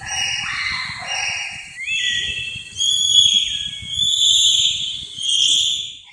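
Bonobos giving a continuous run of shrill, high-pitched calls that shift in pitch, several overlapping, over a faint crackling noise.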